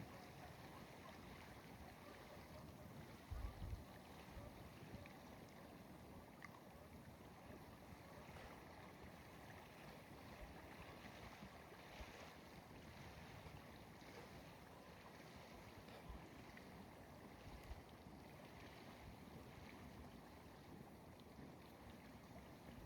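Near silence: faint outdoor background hiss, broken by a few soft low thumps, the clearest about three seconds in.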